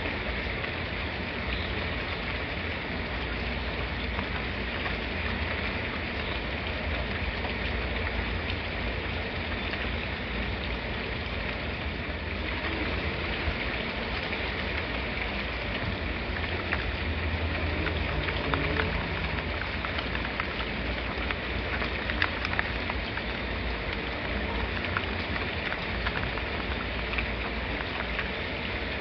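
Steady rain falling: an even hiss with scattered drops ticking, over a continuous low rumble.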